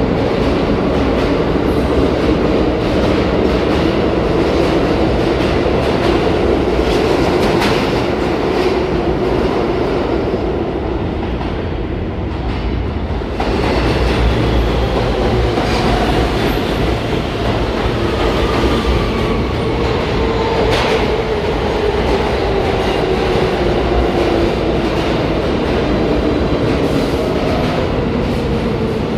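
New York City subway train moving through the station, its motors whining up and down in pitch over the wheels clacking on the rails, with a short lull about halfway through.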